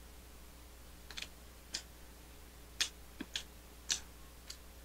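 Faint mouth sounds of someone chewing a bite of a soft mini burger bun: about eight small, irregular wet clicks and smacks.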